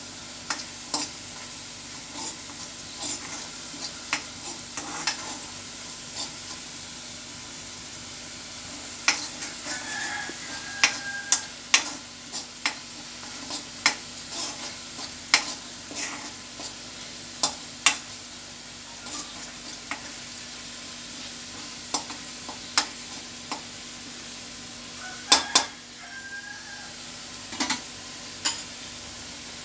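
Onion paste sizzling as it fries in a black kadai, with a metal spoon scraping and clinking against the pan as it is stirred. The clinks come irregularly and are thickest in the second half.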